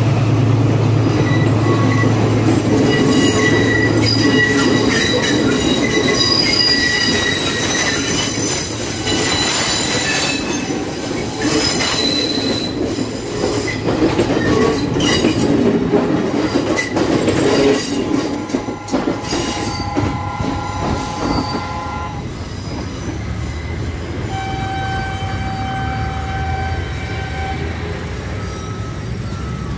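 Sri Lanka Railways passenger carriages rolling past close by, steel wheels squealing with steady high tones over a rumble and clack on the rails. After about eighteen seconds the sound drops and thins as the train moves away.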